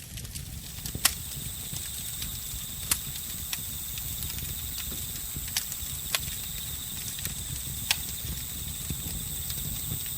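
Campfire crackling, with sharp irregular pops (the loudest about a second in) over a low steady rumble, while crickets keep up a steady high trill.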